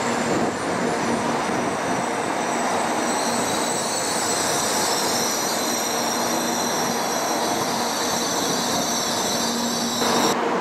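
N700-series Shinkansen train rolling past, a steady heavy rush of running noise. High-pitched squealing tones join it about three seconds in. The sound changes abruptly near the end.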